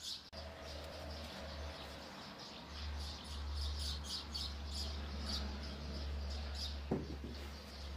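A small bird chirping in quick, repeated high notes, over a steady low hum, with one sharp knock about seven seconds in.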